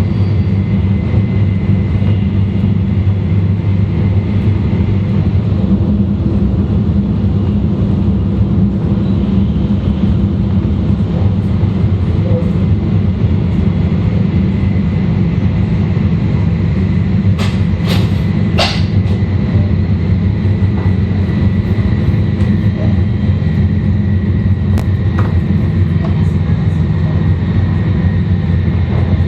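Running noise of an E2 series Shinkansen with Mitsubishi IGBT inverters, heard from a car's vestibule: a steady heavy rumble with a faint high tone over it. A few sharp clicks come about two-thirds of the way through.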